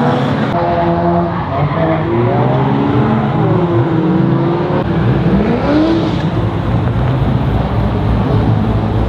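Car engines revving hard, their pitch swinging up and down, over a constant hiss of tyre noise, as cars drift.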